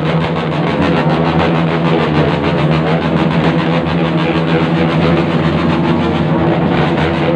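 Several motorcycles with loud aftermarket exhausts revved hard together, making a loud, steady droning din with one held pitch.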